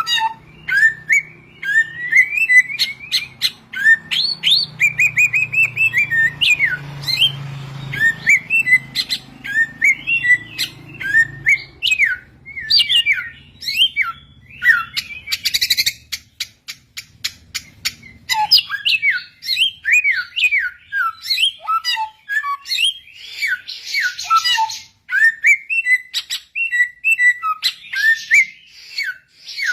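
Samyong bird singing: a fast, continuous run of short whistled notes, mostly sliding downward, mixed with sharp clicking notes.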